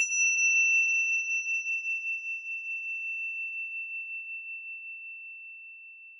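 A single high, pure chime tone struck just before the start. Its upper overtones die away within about a second while the main note rings on with a slight waver and fades slowly until it is nearly gone.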